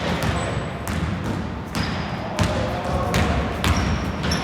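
Basketball bouncing on a wooden indoor court, sharp knocks about every second or so, with a few short high squeaks of shoes on the floor and the echoing murmur of players in a sports hall.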